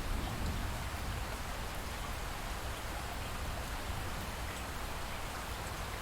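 Light rain falling steadily, an even hiss of drops with no distinct strokes or pauses.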